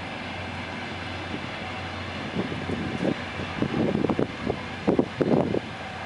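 Freight train of flatcars hauled by a 2TE-series diesel locomotive rolling past, a steady rumble with a low hum. From about two seconds in, wind buffets the microphone in irregular gusts that grow louder.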